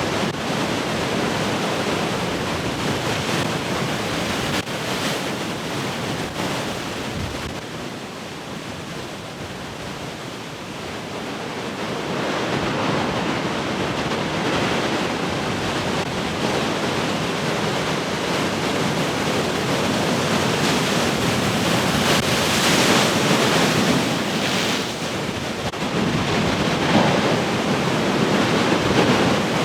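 Heavy ocean surf: large waves breaking and rushing in a continuous wash that dips, then swells to louder crashes near the end, with wind buffeting the microphone.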